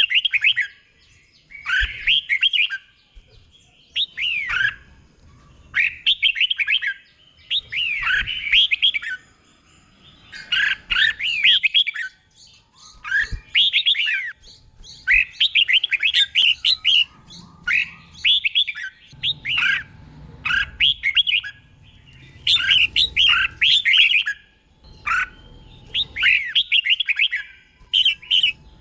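Red-whiskered bulbul singing: short, bubbly warbled phrases about a second long, repeated every couple of seconds, some given in doubled pairs.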